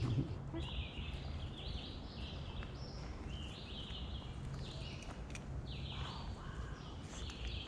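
Birds chirping and singing, many short high calls following one another, over a low steady hum.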